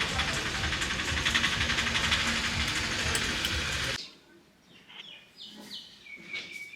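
A loud, steady rushing noise cuts off abruptly about four seconds in. Then it is quiet except for birds chirping.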